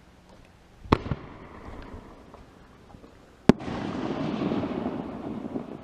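Two sharp bangs about two and a half seconds apart. The second is followed by a couple of seconds of loud rushing, splashy noise.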